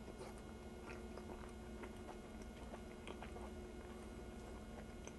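A person chewing a mouthful of beef stroganoff with buttered noodles: faint, soft, wet mouth clicks, with a low steady hum underneath.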